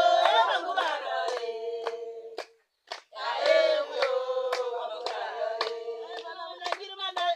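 A group of voices singing a farewell song together, with pans banged in a steady beat of sharp metallic knocks. The singing and banging stop briefly about two and a half seconds in, then start again.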